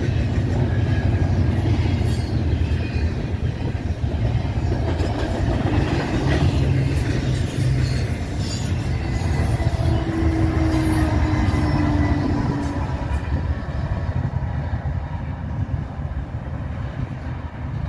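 Freight train of double-stack container well cars rolling past, with a steady low rumble and rattle of steel wheels on the rails. The sound fades over the last few seconds as the end of the train draws away.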